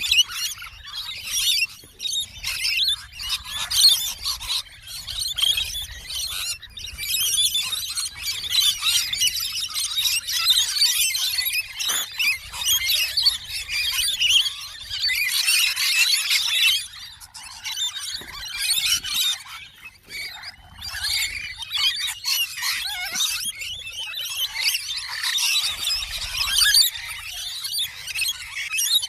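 A flock of birds screeching and chattering all at once, a dense, shrill din that dips briefly a few times.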